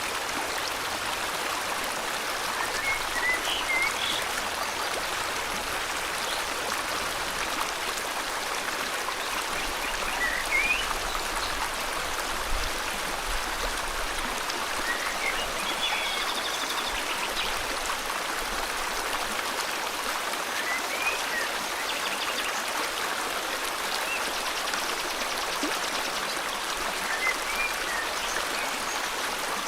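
Steady rush of flowing river water, with a bird's short upward chirps breaking in every few seconds.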